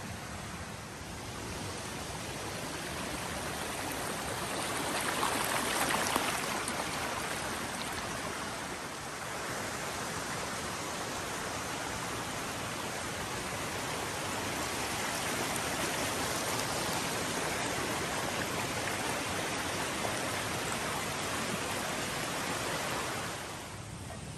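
Creek water running, a steady rush that swells a few seconds in and drops away shortly before the end.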